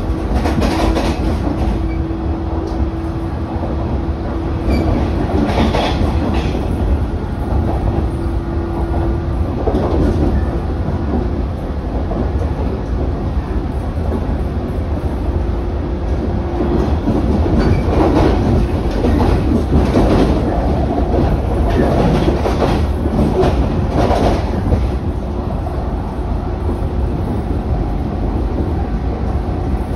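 Inside a JR 115 series electric train running out of a station: a steady low rumble of wheels and running gear, with irregular clacks as the wheels pass over rail joints and points, bunched in the second half. A steady hum runs through about the first ten seconds and returns briefly later.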